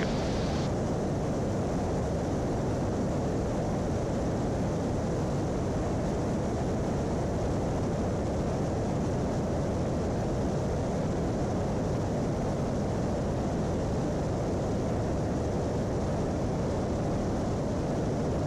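Steady, unchanging engine and airflow drone inside the cabin of a twin-engine Piper Apache in flight on one engine, while the shut-down engine is being cranked for an in-flight restart.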